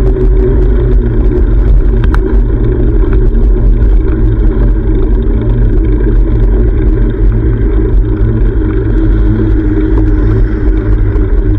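Steady, loud wind rumble buffeting a GoPro's microphone while riding a bicycle, with a few faint clicks and rattles over it.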